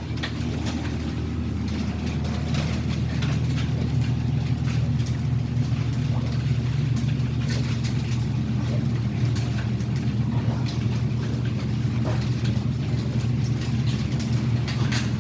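A machine motor running with a steady low drone, a little louder from about two seconds in, with scattered clicks and knocks over it.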